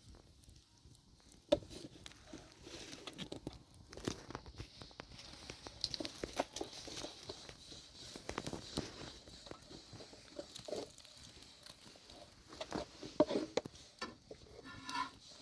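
Irregular rustling, crunching and light knocks of something being handled at close range, with sharp clicks about a second and a half in and again near the end.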